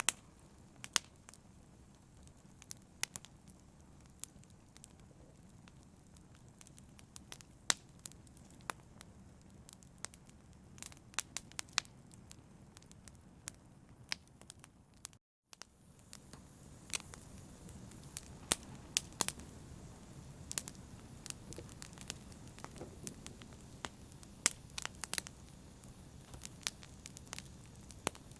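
Wood fire crackling: irregular sharp pops and snaps over a soft steady hiss, cutting out for a moment about halfway through.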